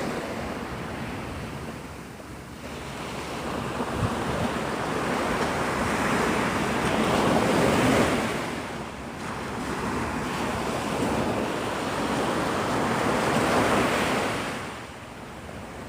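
Surf breaking and washing up on a sandy beach, the noise swelling and falling back in long surges every several seconds, with wind buffeting the microphone.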